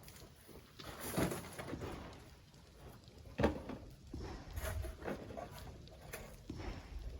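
Irregular scrapes and knocks of sand being shoveled by hand, the loudest about a second in and again about three and a half seconds in.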